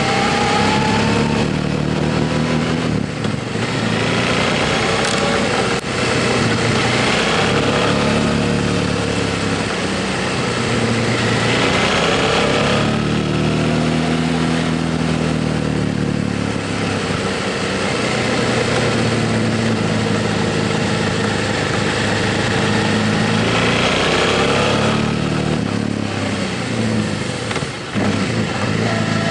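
Motorcycle engine running under way, its pitch rising several times as it accelerates, with short dips in between.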